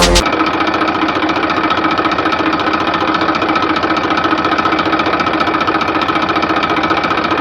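Mini tractor's motor running steadily, a fast even chatter with a steady whine over it.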